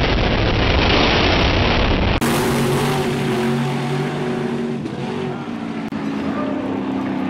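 Drag racing car engines: a loud, noisy blast for about two seconds, then a sudden cut to engines running steadily at low speed with a clear, even hum.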